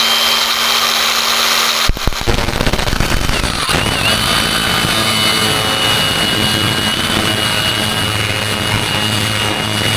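Grinder with a cut-off wheel running at a steady high whine while cutting metal, the pitch dipping briefly under load about four seconds in.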